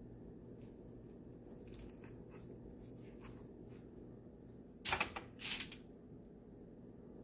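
Kitchen handling noise over a steady low hum: faint clicks, then two short rustling, scraping sounds close together about five seconds in.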